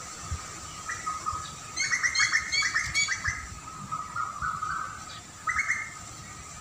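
Songbird chirping: a quick run of repeated chirps about two seconds in, then a few short rising notes and one more brief burst near the end. A low rumble sounds now and then beneath it.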